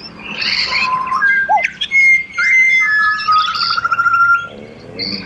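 Pied butcherbirds singing: clear whistled notes and short gliding calls, several sounding at once, with a long wavering note near the end.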